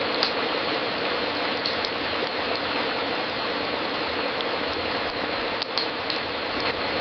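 Wood fire crackling in a fireplace: a steady hiss with scattered sharp pops and snaps, one just after the start and a few close together past the middle.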